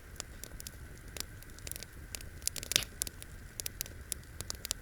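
Wood campfire crackling: irregular sharp pops, several a second, with one louder pop a little under three seconds in.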